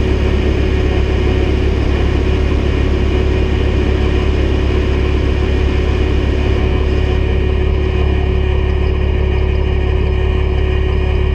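Heavy diesel engine running steadily, a deep even hum with a steady whine above it.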